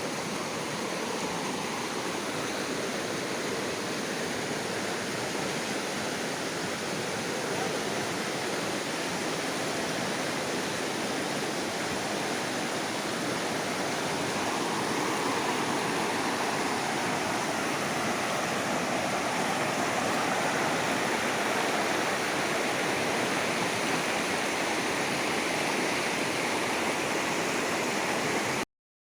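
Rushing water of a mountain stream or small waterfall, a steady full hiss that swells slightly about halfway through and cuts off abruptly near the end.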